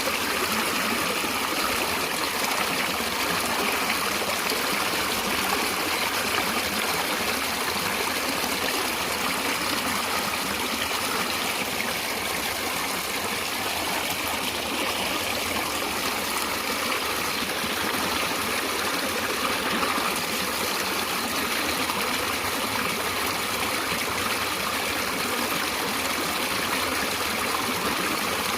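Stream water running, a steady, unbroken rush.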